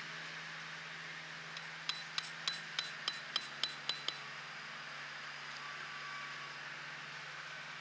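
Eight quick metallic strikes, about three a second, each with a short bright ring, over a steady hiss.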